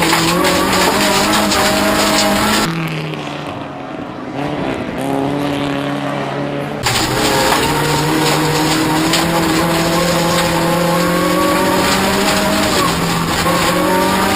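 Toyota Corolla race car engine running hard under load, its pitch climbing and dropping again and again as it accelerates and shifts. For a few seconds near the middle the sound turns duller, then returns to full.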